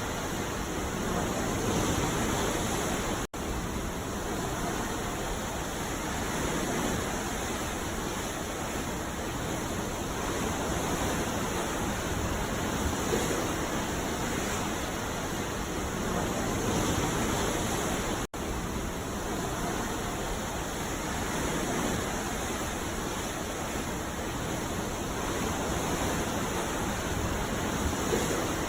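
Ocean surf breaking on a beach: a steady rushing wash that swells and eases every few seconds. The sound drops out for an instant twice.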